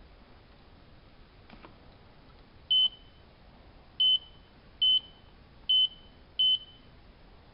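Electronic beeper on a hanseatic HWM814A3D washing machine's control panel giving five short, high beeps at uneven intervals, the kind of key-press confirmation beeps heard while a programme or options are being selected.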